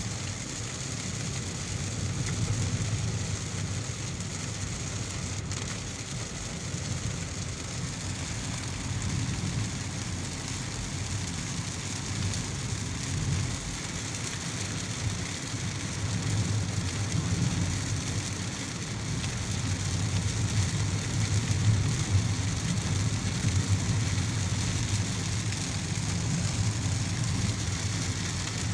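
Heavy rain on a moving car, a steady hiss over a low road and engine rumble that swells and eases.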